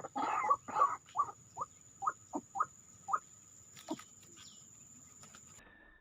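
White-breasted waterhen calling: a run of loud, quickly repeated croaking notes that breaks into short single notes, slowing and fading out about three seconds in.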